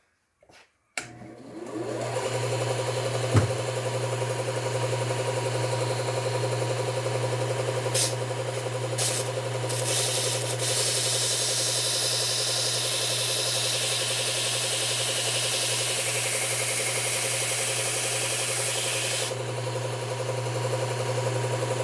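Belt grinder fitted with a 3M Cubitron ceramic abrasive belt, starting about a second in and then running with a steady hum. A pruner blade is ground against the belt: brief touches around eight and nine seconds in, then a continuous grinding hiss from about ten seconds in until near the end.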